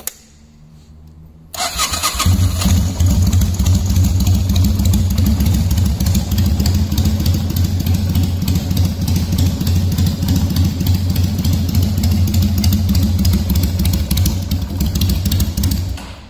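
A custom Patagonian Eagle 250's 250 cc air-cooled V-twin engine is started about a second and a half in, catches at once and idles steadily through its home-made exhaust pipes, then stops near the end. The engine is cold.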